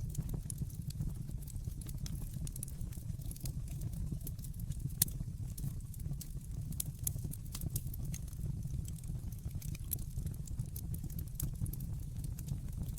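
Wood fire burning in a fireplace: a steady low rumble of the flames with scattered sharp crackles and pops, one louder pop about five seconds in.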